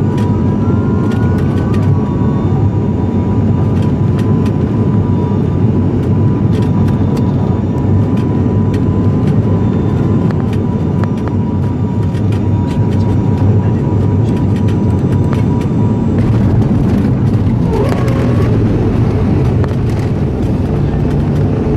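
Steady, loud drone of an ATR 72-500's twin turboprop engines and propellers, with a thin steady whine on top that stops about three-quarters of the way through.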